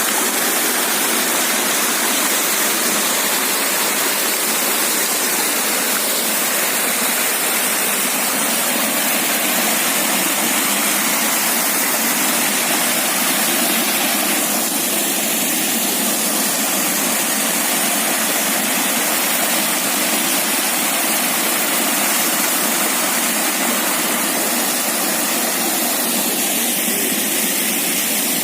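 Waterfall water pouring into a pool: a loud, steady rush.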